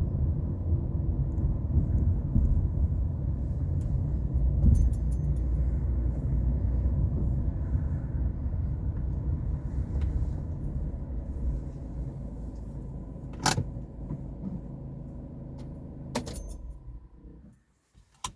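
Car engine and road rumble at low speed, slowly growing quieter, with two sharp clicks about 13 and 16 seconds in; then the sound cuts off to near silence just before the end.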